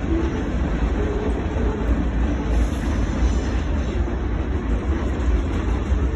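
Freight train of boxcars and covered hoppers rolling past: a steady, continuous rumble of steel wheels on the rails.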